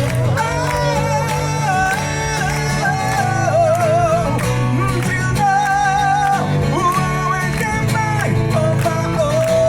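Live music: a wordless lead melody with pitch slides and vibrato over steady guitar accompaniment.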